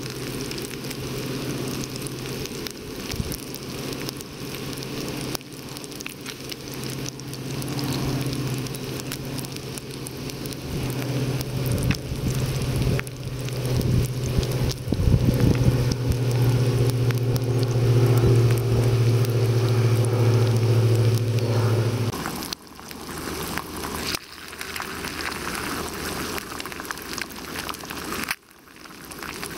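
Bacon frying in a non-stick pan on a gas-canister camping stove: a steady sizzle with crackles. Under it runs a steady low hum that grows louder through the middle and stops abruptly about two-thirds of the way in. After that, hash browns and an egg sizzle in the pan.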